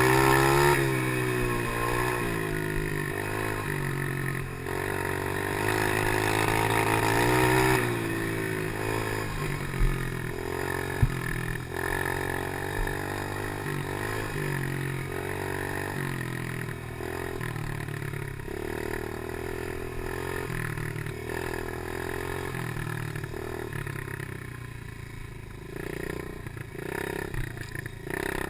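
Small 90cc geared pit bike engine being ridden, revving up and easing off in the first eight seconds, then running more steadily at lower revs. Two sharp knocks about ten and eleven seconds in.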